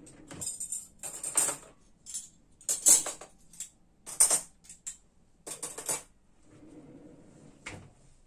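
Dishes and cutlery being handled, making a run of irregular clinks and clatters.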